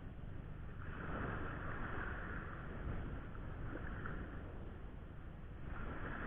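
Surf washing on a beach in two long swells of hiss, the second starting near the end, over a low wind rumble on the microphone.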